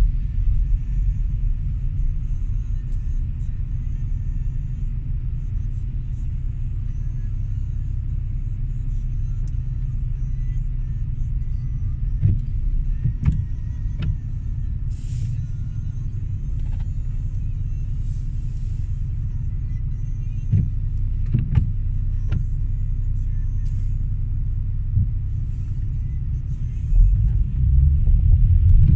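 Steady low rumble of a car being driven, heard from inside the cabin, with a few short sharp knocks about halfway through. The rumble grows louder near the end.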